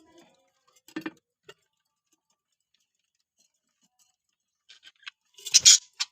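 Pet budgerigars making small sounds: a few faint scattered clicks and ticks, then a short louder burst about five and a half seconds in.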